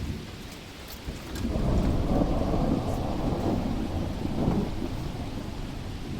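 A long roll of thunder that builds about a second in, rumbles for several seconds and slowly fades, over steady heavy rain.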